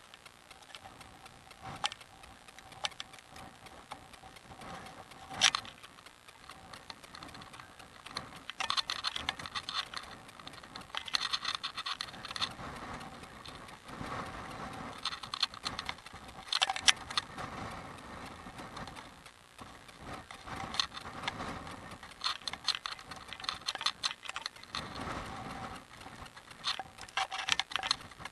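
Bicycle rattling and clicking as it rolls down a rough hill road, with sharp knocks at irregular intervals over road and wind noise.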